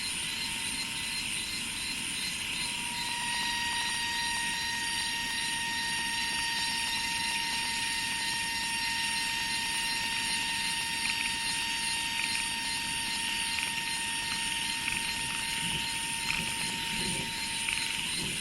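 Rice-field countryside ambience: a steady high insect hiss over a low rumble, with a constant whining tone that swells about three seconds in and fades out near the end.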